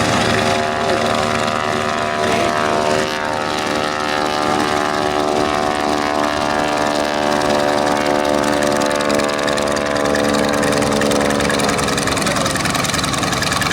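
A piston-engined propeller aircraft running at high power. Its steady multi-toned drone falls slowly in pitch, typical of an aircraft passing and then moving away.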